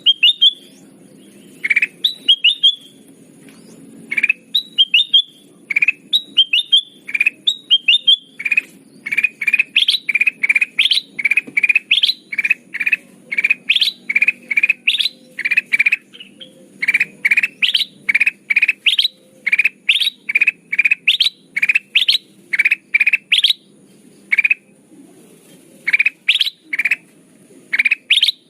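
Kutilang emas bulbul lure call: short, sharp, rising call notes repeated about twice a second in long runs, with a few brief pauses.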